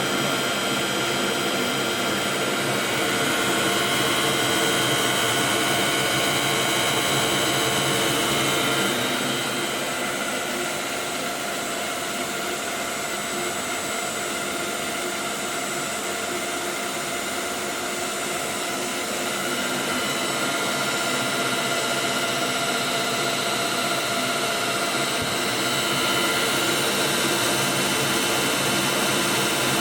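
A workshop machine or power tool running steadily, a continuous whirring noise with several steady whining tones. It eases off a little about a third of the way through and picks up again after about twenty seconds.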